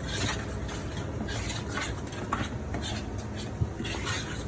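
A fork stirring seasoned flour, with irregular scraping strokes and a sharp click of the fork against the bowl about three and a half seconds in.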